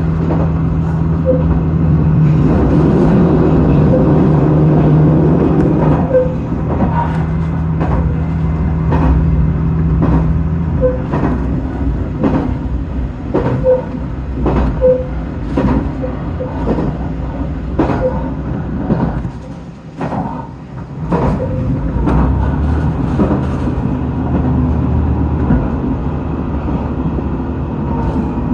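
JR Shikoku 2000 series diesel railcar under way: its diesel engine drones steadily for the first ten seconds or so, then falls away. Wheels click over rail joints in a regular rhythm for the rest of the time, briefly quieter about two-thirds of the way through.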